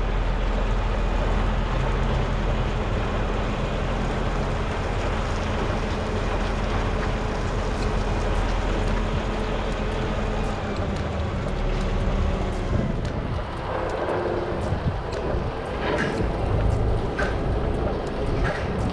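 Semi truck's diesel engine running slowly under light load while the rig reverses, heard from inside the cab as a steady low rumble. A few short sharp clicks come in the second half.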